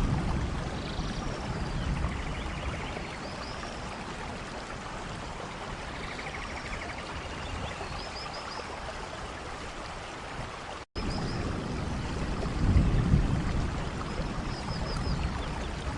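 Steady rainforest rain with the trickle and pour of running water. Low rumbles of distant thunder come near the start and again about two-thirds of the way through, and small high chirps of birds sound every few seconds. The sound cuts out for a split second about eleven seconds in.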